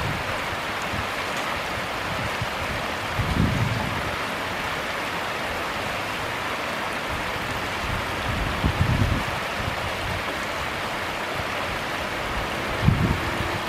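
Steady rush of flowing stream water, with three brief low thumps: about three and a half seconds in, around nine seconds and near the end.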